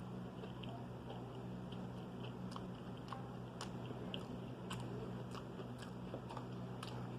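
A person chewing and biting food close to the microphone, with scattered short mouth clicks throughout. A steady low hum runs underneath.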